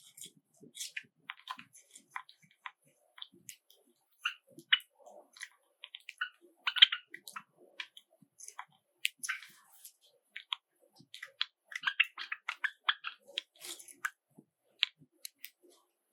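Java sparrows making short, scattered chirps mixed with many small sharp clicks and taps, irregular and with brief pauses between.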